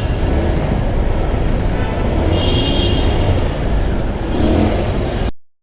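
Steady road and traffic noise heard while riding a scooter, with a heavy low rumble and a brief high-pitched tone about two and a half seconds in. The sound cuts off abruptly near the end.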